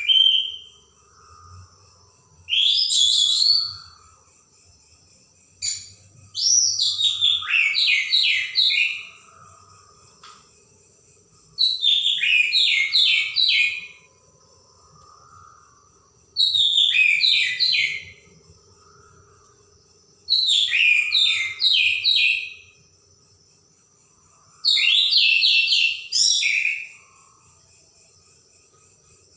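Orange-headed thrush singing: six loud phrases of about two seconds each, roughly every four seconds, each a fast run of sharp repeated notes, some sliding downward, with short pauses between.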